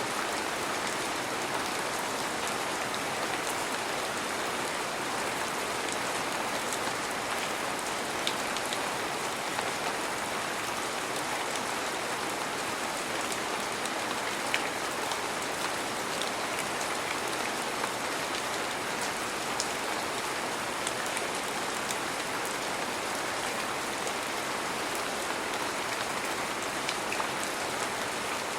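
Heavy rain falling steadily, a dense even hiss with occasional sharper drops tapping.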